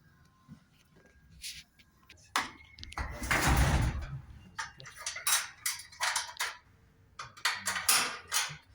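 Knocks and clacks of a Whirlpool washing machine's cabinet parts being handled and seated back in place during reassembly, with a louder scraping rush lasting about a second about three seconds in and a quick run of knocks near the end.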